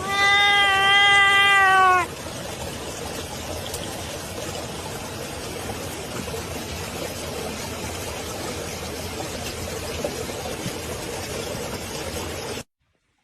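A domestic cat giving one long meow of about two seconds, steady in pitch and dropping slightly at the end, followed by a steady background hiss that cuts off suddenly near the end.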